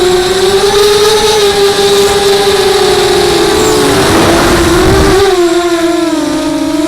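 Brushless motors and propellers of a 250-size FPV racing quadcopter whining. The pitch wavers with the throttle, dips about six seconds in and climbs again, and a rush of air noise comes through around the middle.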